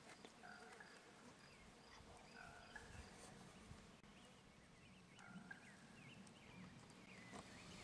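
Faint forest birdsong: scattered short chirps and whistled calls from several birds, with no other sound.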